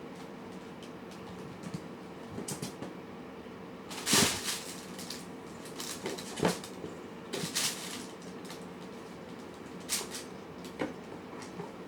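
Cats eating from food bowls: scattered clicks and knocks of the dishes, the loudest about four seconds in, over a steady faint hum.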